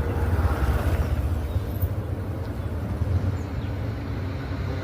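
Steady low outdoor rumble with a faint hiss above it, with no distinct events.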